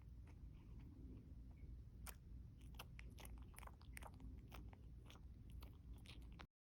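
Faint, irregular crunchy chewing clicks, a cat eating something, cutting off abruptly near the end.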